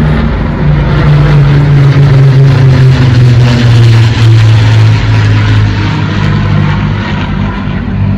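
An aircraft passing close by, loud and steady, its engine tone dropping slowly in pitch as it goes by.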